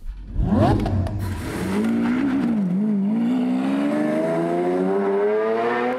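Lamborghini Aventador S's naturally aspirated V12 starts with a quick rev, then the car pulls away, its engine note climbing steadily in pitch as it accelerates.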